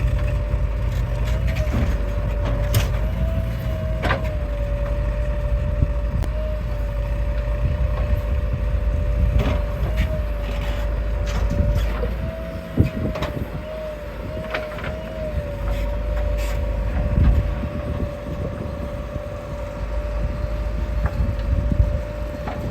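Diesel engines of earthmoving machinery and tractors running, with a steady, slightly wavering whine. Scattered sharp knocks and clanks come from the loading work, the loudest about 13 seconds in. The low rumble eases for a few seconds in the middle, then builds again.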